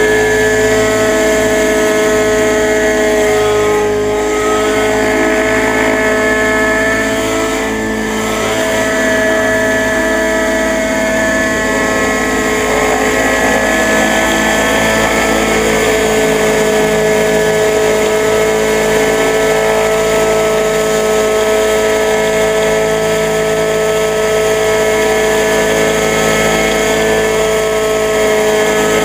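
Freshly replaced AS90 engine with a new muffler running at a steady, high, nearly constant speed, a smooth even tone without the popping it used to make. Its break-in is almost finished.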